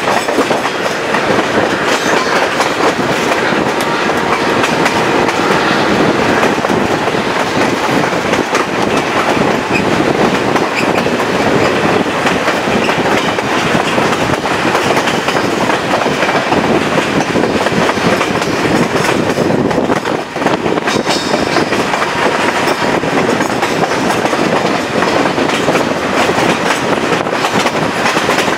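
Chepe passenger train running along the track, heard from beside one of its carriages: a steady rumble and clatter of steel wheels on the rails.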